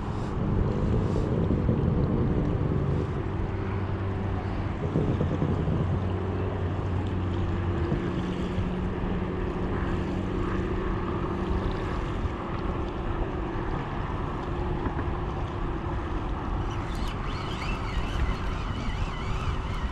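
Steady low engine drone, a hum with several even tones that drops to a lower, weaker pitch about eight seconds in, over wind rumbling on the microphone.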